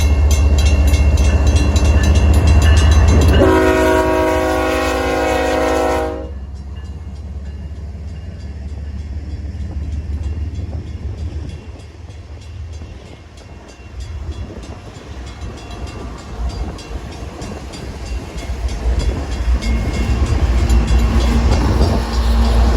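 BNSF manifest freight train rolling slowly past, its diesel locomotive rumbling loudly. About three seconds in, the locomotive's horn sounds one chord-like blast of nearly three seconds that cuts off suddenly. The train's rumble then goes on quieter and builds again near the end.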